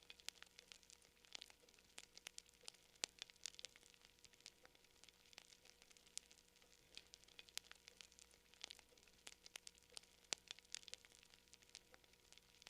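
Wood fire crackling: faint, irregular sharp pops and snaps, several a second, over a soft hiss.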